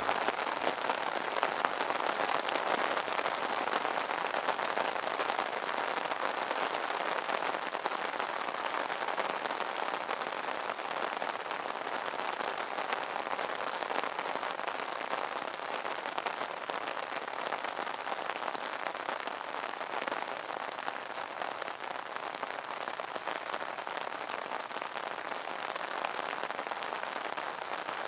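Steady rain pattering on an umbrella's fabric canopy, a dense continuous patter of many small drop impacts.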